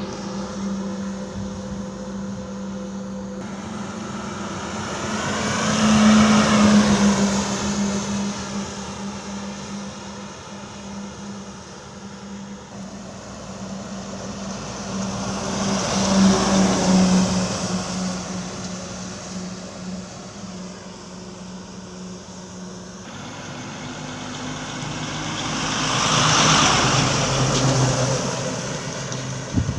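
Road vehicles passing by three times, about ten seconds apart, each pass swelling in loudness and fading away over a steady engine hum.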